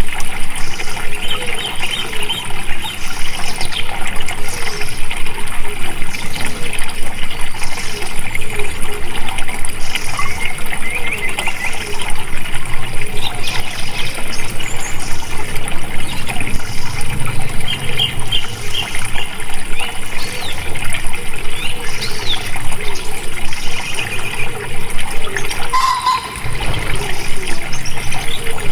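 Steadily flowing, trickling water with birds chirping over it in short twittering calls. A high buzz above it pulses about once a second.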